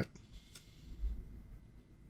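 Faint handling noise of trading cards being flipped through by hand, with a soft low bump about a second in.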